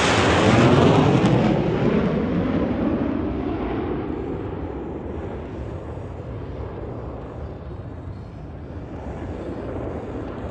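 USAF Thunderbirds F-16 jet noise from a low flypast: a loud roar at the start that fades away over the next few seconds into a distant low rumble as the jets pull away.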